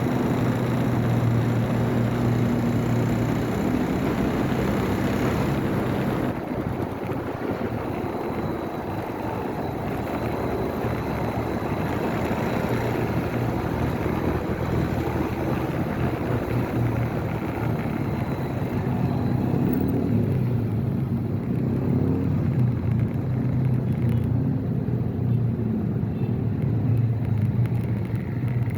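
Motorcycle engine running while riding, its pitch shifting up and down with the throttle, over wind and road noise.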